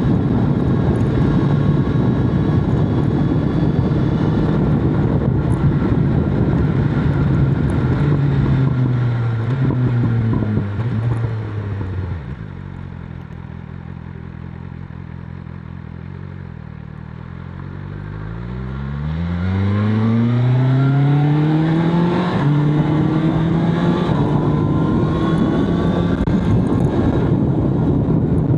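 BMW S1000RR superbike's inline-four engine running under load with wind rushing past. About a third of the way in the revs fall away and it settles to a quieter, steady low idle for several seconds. It then accelerates hard, pitch climbing steeply, with two quick gear shifts before running steadily again.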